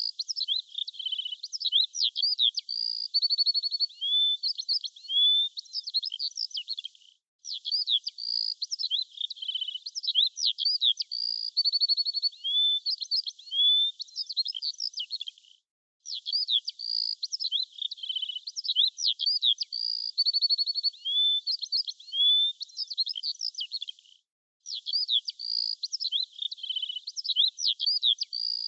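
A songbird's quick chirps, rapid trills and sweeping whistled notes. The same stretch of about eight seconds repeats with brief silent gaps: a looped recording of birdsong.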